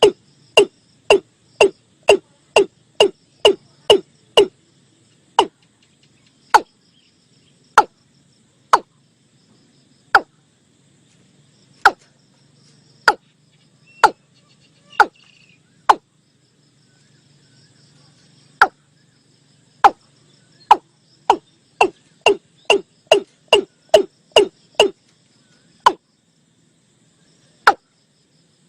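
Watercock (Gallicrex cinerea) calling: a long series of short, sharp notes, each dropping quickly in pitch. They come fast at first, slow to about one a second, speed up again to about three a second past the middle, then space out near the end. This is the bird's territorial call, played as a lure.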